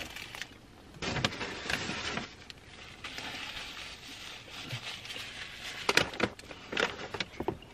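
Paper food bag and wrapper rustling and crinkling as they are handled and opened, with several sharp crackles near the end.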